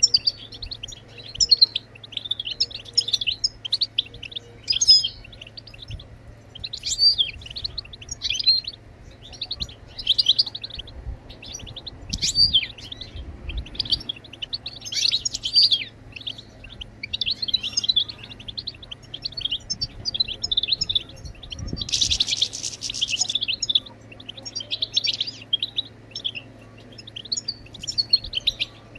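European goldfinch twittering: rapid, liquid chattering phrases run on almost without pause, with a louder harsh buzzy note about two-thirds of the way through. This is the goldfinch's 'batbata' twitter that keepers play to set caged goldfinches singing.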